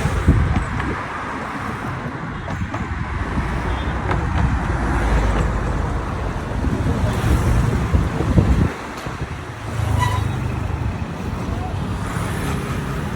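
Road traffic: motor vehicles running and passing in a continuous low rumble that swells and eases, with indistinct voices in the background.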